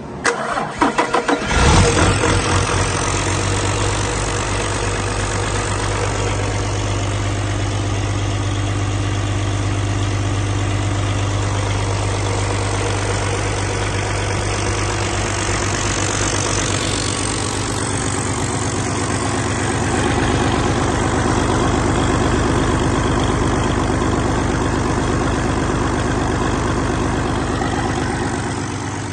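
2013 Paccar MX-13 12.9-litre inline-six diesel engine cranked over by the starter for about a second and a half, catching and then idling steadily. It runs a little louder for several seconds in the second half before settling back.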